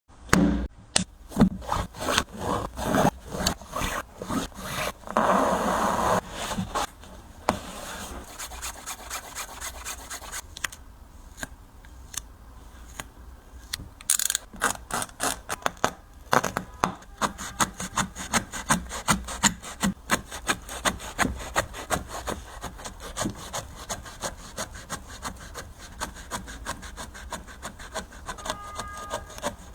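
Repeated back-and-forth sawing strokes cutting through a Nike PG 6 basketball shoe. The strokes are irregular at first, then settle about halfway through into a quick, even rhythm of about two strokes a second.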